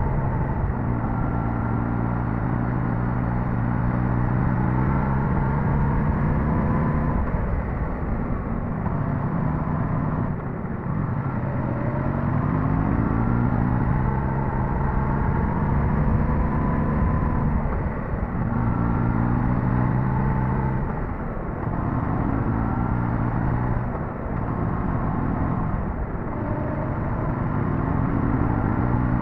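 Suzuki GSX-S1000GT's inline-four engine under way, its pitch climbing and dropping again and again as the bike accelerates, shifts and eases off, with a steady rush of wind and road noise beneath.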